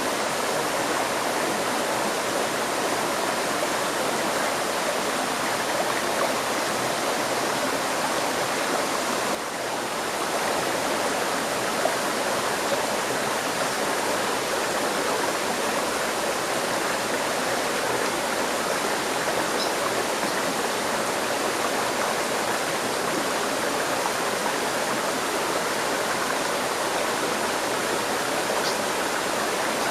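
River stream flowing steadily, with a brief dip in level about nine and a half seconds in.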